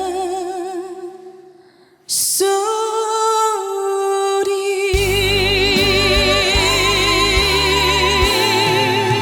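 Female trot singer holding long notes with wide vibrato, with band accompaniment, as the song closes. The note fades out about two seconds in, a new long note starts right after, and the full band with bass joins about five seconds in under a final held note.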